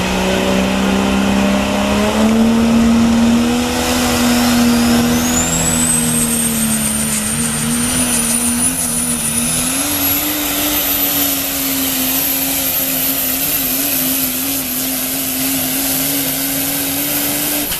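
Diesel 4x4 super truck engine running hard under load while pulling the sled, its pitch climbing slowly. A high turbo whistle rises over several seconds, starting about four seconds in, and then holds.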